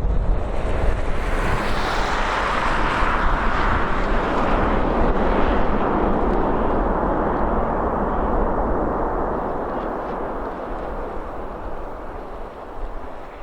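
Boeing 747-400 freighter's jet engines passing, a loud rushing jet noise that swells over the first couple of seconds and then slowly fades, over a low rumble of wind on the microphone.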